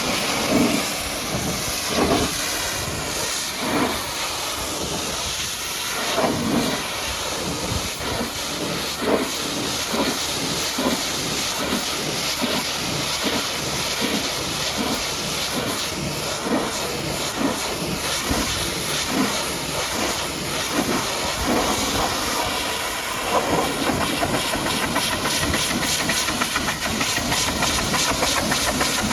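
High-pressure water jet from a pressure washer blasting a muddy truck, a steady hissing spray with irregular spatter as the jet moves over the surfaces.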